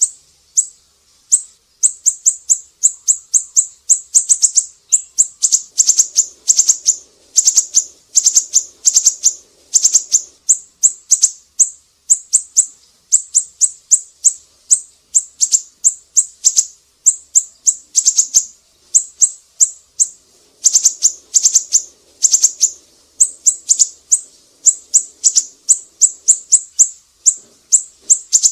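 Siri-siri songbird singing energetically: rapid strings of sharp, high chirps, repeated in short series with brief pauses between them.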